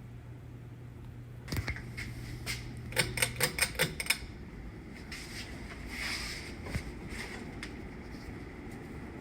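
Ceiling fan motor humming steadily, then cutting off about three and a half seconds in, among a quick run of about six sharp clicks, with a few lighter ticks after.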